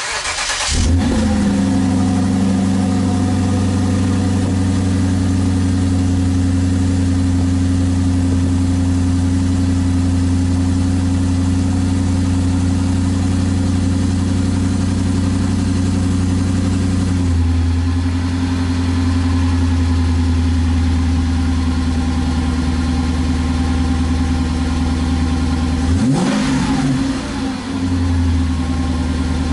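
Lexus IS-F's 5.0-litre V8 with an HKS mid-pipe and HKS SSM muffler cranking and catching, then idling steadily through the aftermarket exhaust. About seventeen seconds in, the idle drops to a lower note, typical of a cold start settling from fast idle. Near the end comes one short rev blip that rises and falls back to idle.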